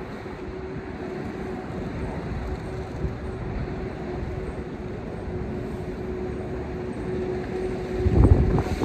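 City street traffic: a low rumble with a steady droning hum throughout, swelling louder for a moment near the end.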